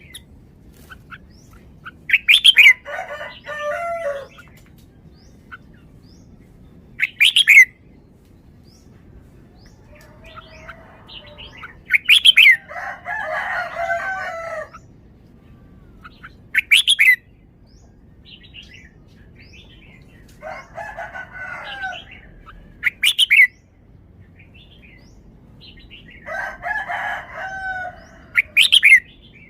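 Red-whiskered bulbul singing short phrases of warbled notes, each with a sharp, loud high note, about every five seconds.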